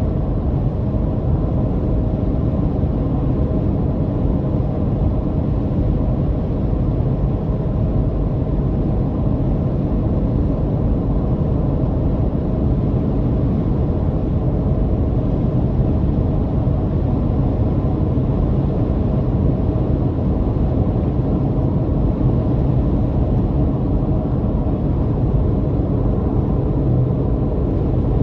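A car's motor droning steadily while driving, with a low rumble of road noise and a few faint steady tones that hold without change.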